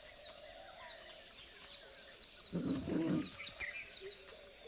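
Jungle ambience: a bird chirping repeatedly over a steady high insect drone, with a louder, low, wavering animal call about two and a half seconds in.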